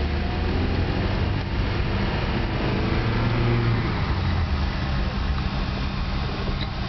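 Car engine hum and road noise heard from inside the cabin while driving, steady, with the low hum growing a little louder about three seconds in.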